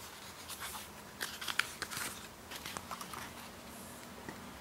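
Scattered small clicks and crinkly rustles of a picture book's pages being handled and turned.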